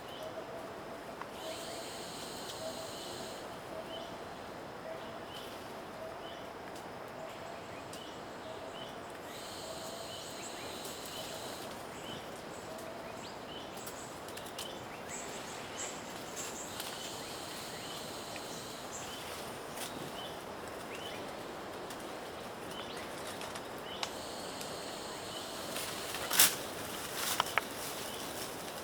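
Rainforest ambience: insects buzzing in bursts of two to three seconds that come back about every seven seconds, over a steady hiss, with a faint wavering tone in the first half and a few sharp clicks near the end.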